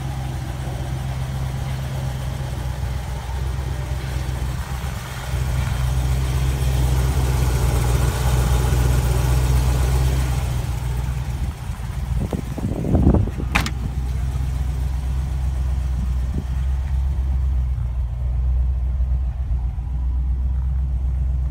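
Range Rover Classic's 3.5-litre Rover V8 idling steadily, with a brief clunk about two-thirds of the way through.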